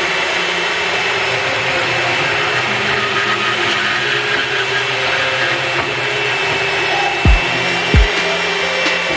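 A power tool starts abruptly and runs steadily with a harsh rushing noise, over background music; near the end two deep booms fall in pitch.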